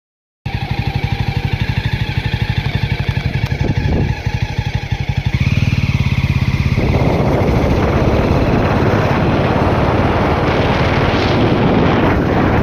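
An engine running with a fast, even pulsing. From about seven seconds in, heavy wind noise on the microphone builds over it.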